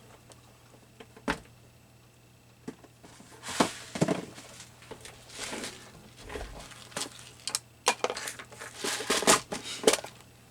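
Rummaging through craft supplies in search of a brad: rustling and light clicks of small parts being handled, in several short bursts.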